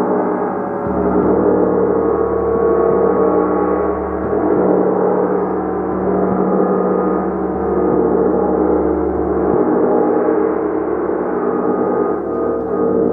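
Gong played continuously in a dense, sustained wash of many overlapping tones that swells and eases gently, with no single strike standing out.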